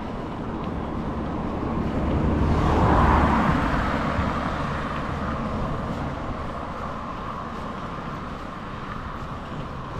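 Road and wind noise while riding a mountain bike: a steady rush that swells to its loudest about three seconds in, then eases off.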